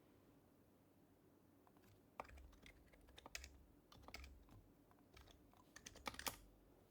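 Soft typing on an HHKB Professional HYBRID Type-S keyboard with silenced Topre switches. The keystrokes start about two seconds in, irregular and quick, with a denser run of strokes near the end.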